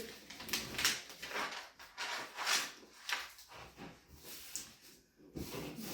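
Hands rubbing and smoothing contact paper down onto a cardboard tube: a run of irregular short swishing rubs and handling noises.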